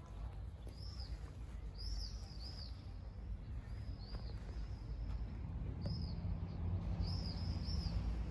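Small birds chirping: short high notes, singly and in quick pairs, every second or two, over a steady low outdoor rumble. A low steady hum joins about halfway through.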